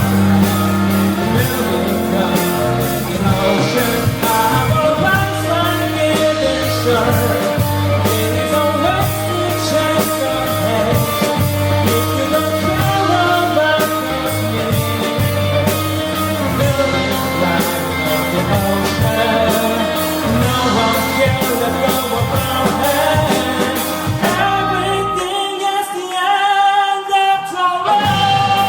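Rock band playing with drums, bass guitar and guitar, the sung or played melody running on top. About 25 seconds in, the drums and bass drop out for a couple of seconds, leaving a wavering melody line alone before the full band comes back in.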